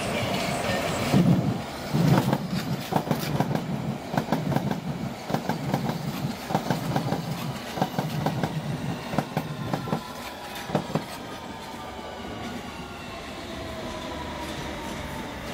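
London Underground S stock train running along the platform, its wheels clicking rapidly over rail joints. In the last few seconds the clicking stops and a falling electric motor whine is heard.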